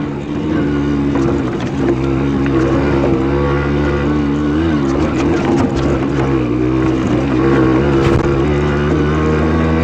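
Simson S51 moped's 50cc two-stroke single-cylinder engine running under way off-road, its revs rising and falling with the throttle, briefly dropping just at the start. A few short knocks sound over the engine.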